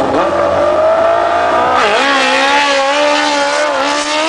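Car engine held at high revs with a steady, slightly wavering pitch, dipping briefly and climbing back about two seconds in.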